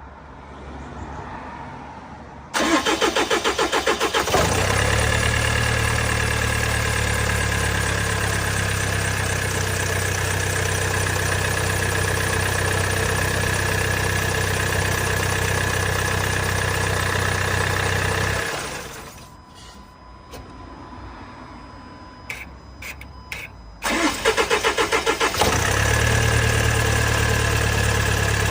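Range Rover Velar engine cranked and started, running steadily for about fourteen seconds, then switched off; after a few clicks it is cranked and started again near the end. The owner asks whether the noise is a bad timing chain.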